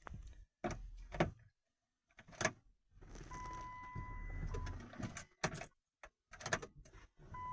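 A Chrysler Grand Voyager's starter being tried on a seized engine that will not turn over: a series of clicks and clunks, with a steady hum and a thin tone for a couple of seconds in the middle.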